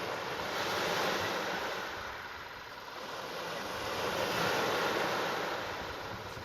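Sea waves washing in, a steady rushing noise that swells twice, about a second in and again around four and a half seconds.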